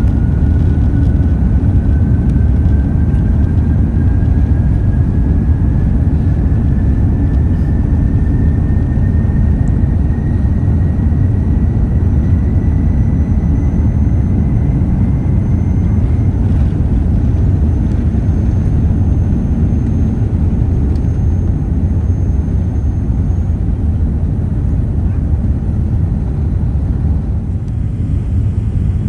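Airbus A380 cabin noise: a steady low rumble of jet engines and airflow, with a faint whine that slowly rises in pitch over the first half.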